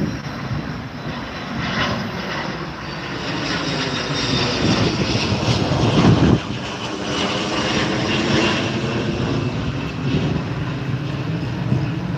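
Jet aircraft taking off: a loud, steady engine roar with a high whine that swells, peaks about six seconds in, and slowly shifts in pitch as the plane passes.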